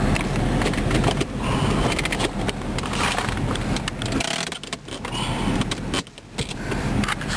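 Jeep Grand Cherokee engine idling, heard from inside the cabin, with scattered clicks and knocks from handling the dashboard controls.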